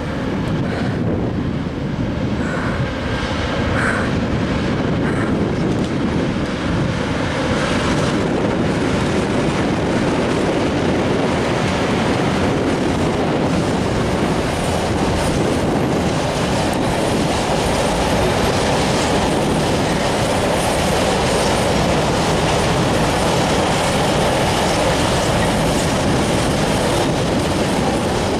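A train passing close by: a loud, steady rolling rumble of wheels on rails that builds over the first few seconds and then holds.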